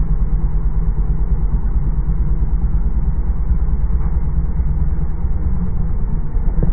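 Motorcycle engine idling, a steady low pulsing with no change in speed.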